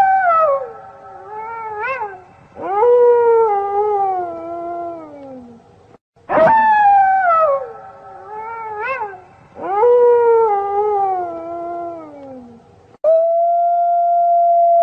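Wolves howling: long howls that slide downward in pitch, with short rising yelps between them. The same run of calls is heard twice, then a long, steady howl begins near the end.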